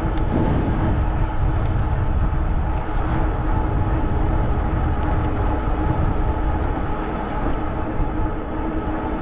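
Wind rumbling on a GoPro's microphone during an e-bike ride, over a steady whine from the electric bike's motor.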